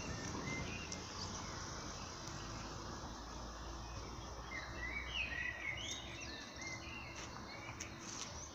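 Outdoor street ambience with songbirds chirping and twittering in short, quick phrases, busiest about four to six seconds in, over a steady low background hum.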